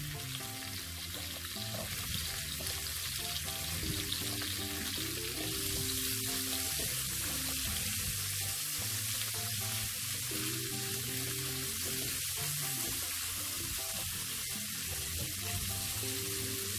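Sliced salted pork belly with ginger, garlic and shallot sizzling in hot oil in a non-stick wok while it is stirred with chopsticks; the sizzle grows a little louder about five seconds in. Soft background music plays underneath.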